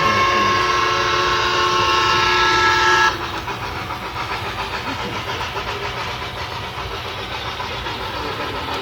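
Sound decoder of an HO scale model steam locomotive blowing a long chime whistle, several tones at once, which cuts off suddenly about three seconds in. It is followed by quieter, steady rhythmic chuffing from the same small speaker.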